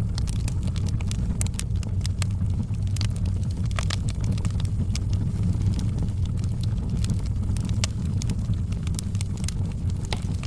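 Wood fire burning in a fireplace: a steady low rumble of the flames with frequent small crackles and pops of burning wood scattered irregularly throughout.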